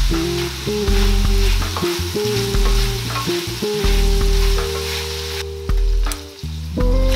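Sliced sausage, pork and chicken sizzling as they fry in a stainless-steel skillet, stirred with a wooden spoon. The sizzle breaks off for under a second near the end, then returns. Background music with steady low notes plays throughout.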